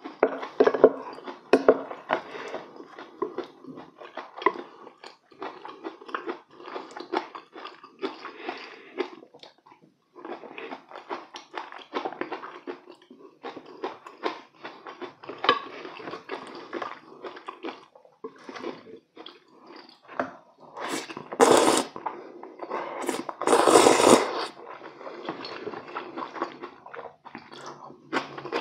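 Close-miked mouth sounds of a man chewing and eating: wet, irregular clicking chews and smacks throughout, with two louder, noisier sounds about three-quarters of the way through.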